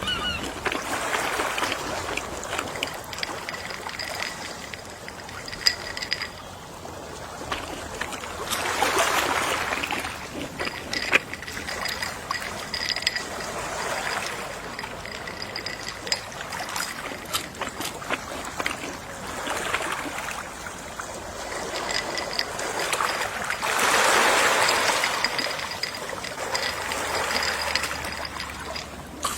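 Gentle sea waves washing ashore in slow swells, the loudest about a third of the way in and again about four fifths in, with faint scattered clicks and a thin intermittent high tone.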